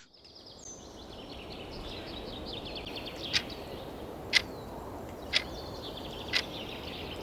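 Countdown timer ticking once a second, starting about three seconds in, over an outdoor ambience of rapid chirping trills.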